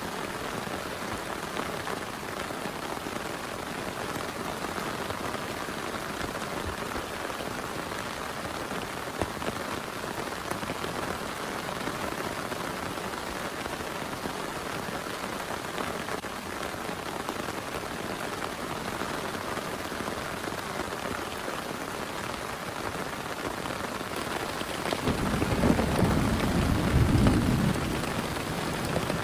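Steady heavy rain falling, with a low rumble of thunder rolling in for a few seconds near the end.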